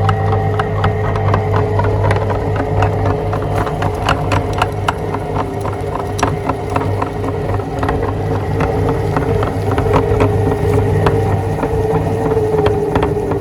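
Electric meat grinder motor running steadily under load as it grinds donuts, with a constant hum and whine and many irregular small clicks and crackles from the auger and cutting plate.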